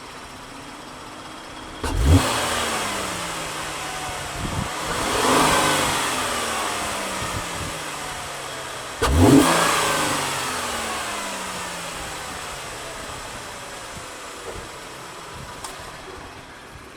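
2014 Chevrolet Camaro's 3.6-litre V6 on its stock exhaust, idling and then revved three times. There are sharp blips about two and nine seconds in and a slower swell between them, and each time the engine falls slowly back to idle.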